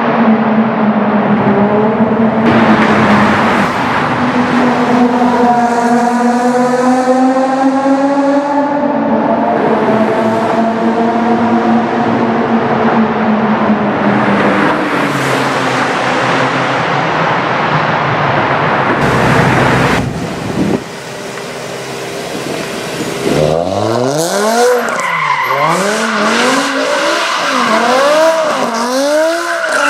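A BMW M5 E60's V10 engine, Hartge-tuned with a Botter exhaust, running hard with tyres squealing as they spin, the pitch climbing partway through. After a short drop, the engine is revved up and down in quick succession, loud through the exhaust.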